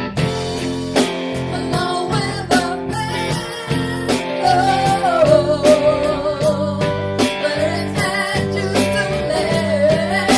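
Live band rehearsing a rock-soul song: electric guitar and drum kit, with a voice holding a long wavering note from about halfway through.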